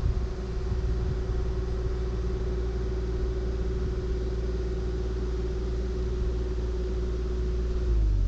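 Diesel engine of a compact construction machine running under load, with a steady low rumble and a steady hydraulic whine that drops in pitch and fades away near the end.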